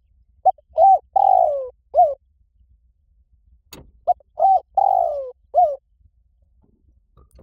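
Spotted dove cooing: two phrases, each of four notes, with the third note long and falling in pitch.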